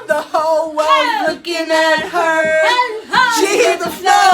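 Voices singing, with held and gliding high notes.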